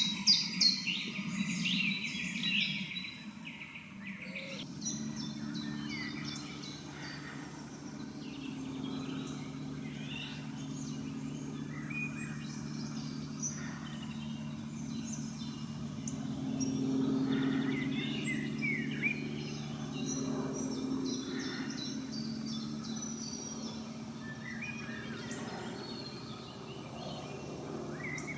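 Songbirds singing in a mix of chirps and whistled phrases, loudest and densest in the first few seconds. From about five seconds in, a steady low hum runs under the song and swells briefly in the middle.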